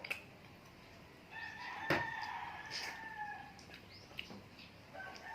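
A rooster crowing: one long crow starting about a second in and another beginning near the end. A sharp click comes about two seconds in, the loudest moment.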